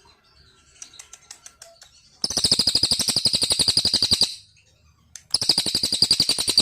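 Small songbird singing: a few soft chirps, then two loud, fast trills of rapidly repeated high notes, each about two seconds long, with a short pause between them.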